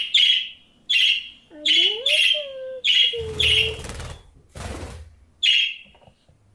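Pet budgerigar giving short, sharp chirps, about eight in a row at uneven intervals. A lower, gliding human coo sounds briefly in the middle, along with two short bursts of rustling noise.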